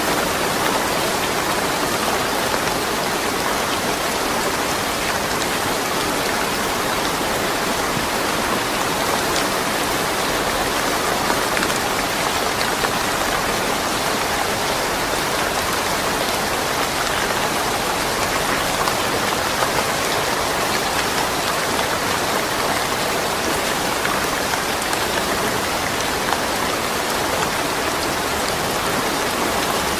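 Steady rain falling, an even hiss of drops with occasional small distinct drop ticks, and no thunder.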